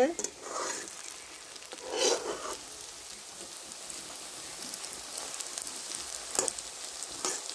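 Spinach pakoras sizzling steadily in hot oil in a metal wok. A few short scrapes of a metal spatula against the pan come about two seconds in and twice near the end.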